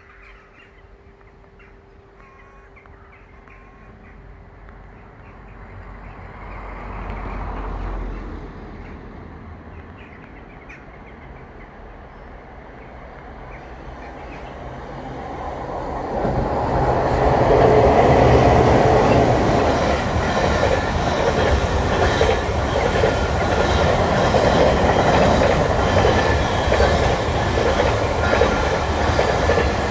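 Container freight train hauled by a Class 90 electric locomotive approaching and passing: a distant rumble grows from about 14 seconds in and turns loud about 17 seconds in. The wagons' wheels then clatter steadily over the rails. A separate low rumble briefly swells and fades about seven seconds in.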